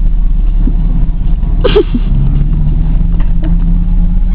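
A single short, harsh bird call about a second and a half in, over a steady low rumble.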